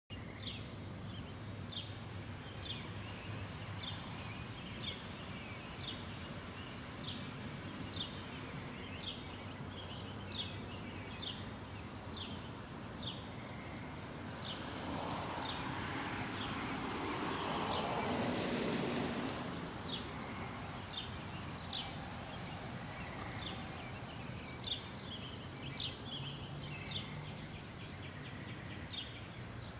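Birds chirping over steady outdoor background noise, a short sharp call about once or twice a second. About halfway through, a broad rushing sound swells for several seconds and fades.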